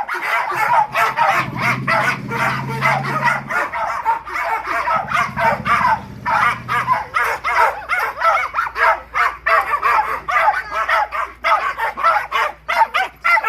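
A pack of West Highland white terriers barking and yipping nonstop, several barks a second, overlapping one another, excited by a golf cart ride.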